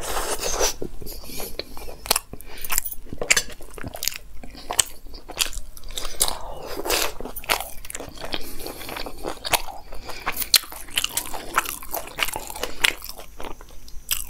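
Close-miked chewing of a mouthful of potato-stuffed paratha dipped in masala curd: a run of irregular mouth clicks and smacks.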